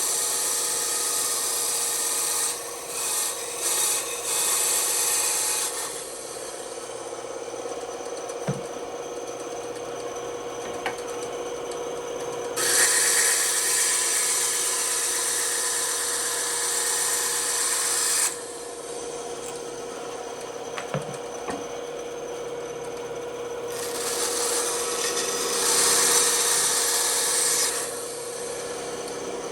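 Bandsaw running with a steady hum, its blade cutting through wood in three stretches of louder sawing: at the start, around the middle, and near the end, with quieter running between them.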